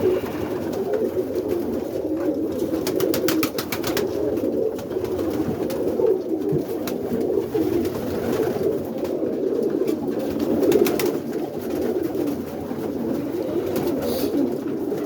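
A loft full of roller pigeons cooing continuously, many birds at once, with a few sharp clicks about two to four seconds in.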